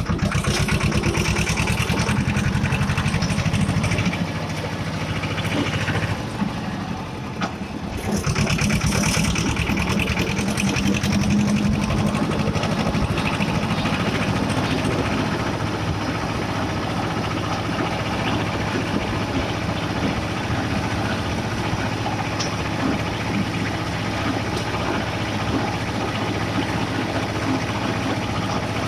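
Escorts 335 tractor's diesel engine running under way, its level dipping for a few seconds about four seconds in and picking up again about eight seconds in, then settling into a steady drone.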